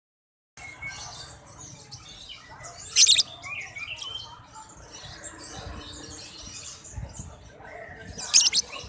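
Young lovebirds chirping, with shrill, loud bursts of calls about three seconds in and again near the end.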